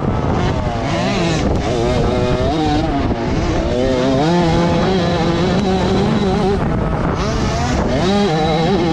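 Several motocross bike engines running together, their revs rising and falling continuously as the bikes race around the track.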